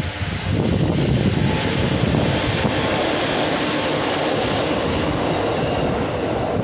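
JR 205 series electric commuter train passing, with steady rolling noise from its wheels on the rails that grows louder about half a second in and then holds.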